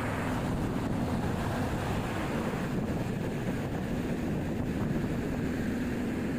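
Steady rushing air noise with a faint low hum under it.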